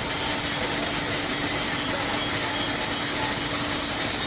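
Caterpillar 330D excavator's diesel engine running steadily, a constant low drone under a strong high hiss.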